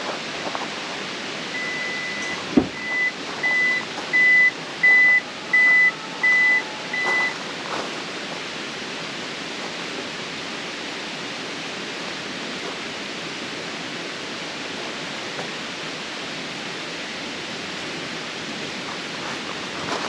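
A steady rushing hiss, with a run of electronic beeps at one pitch near the start: one longer beep followed by about six short beeps, each under a second apart, and a single sharp knock among the first of them.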